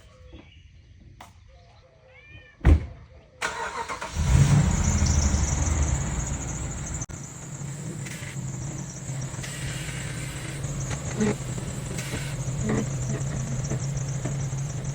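A thump, then a truck engine cranks and catches a little over three seconds in, revs briefly and settles into a steady idle.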